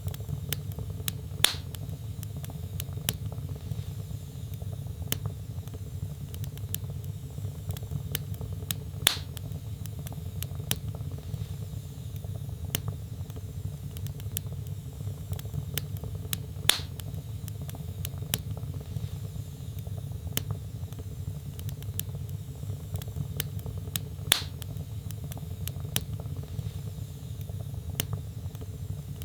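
Wood logs burning in a fireplace: a steady low rumble of flame with frequent small crackles, and four louder pops about every seven and a half seconds.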